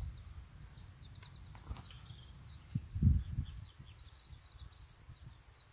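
A small bird singing in the background: rapid short high chirps repeating throughout. There is a low rumble underneath, with a couple of soft low thumps about three seconds in.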